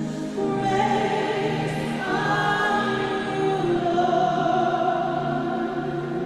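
Worship music: a choir of voices singing a slow held melody over a sustained keyboard chord.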